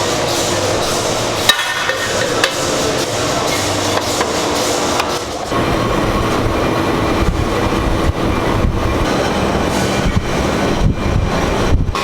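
Steady mechanical running noise with occasional sharp metallic knocks.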